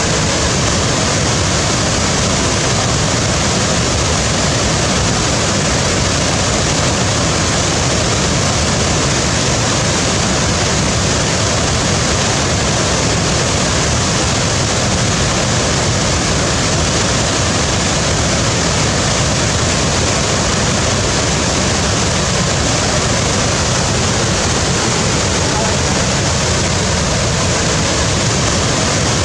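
Waterfall: a loud, steady rush of falling water with no change.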